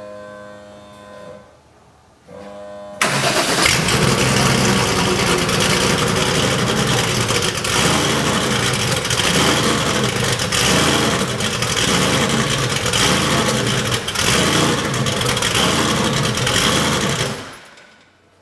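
Porsche 964 RSR air-cooled flat-six, after two short whirs from the starter, catches about three seconds in and runs loud and rough. It surges up and down about once a second as the throttle is held part-open to keep it from stalling, then dies away near the end. The rough, surging idle is a sign of the engine running too lean at idle.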